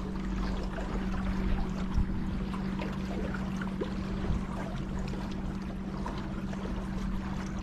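Water moving and splashing around a kayak on the river, with a few small knocks, over a steady low hum.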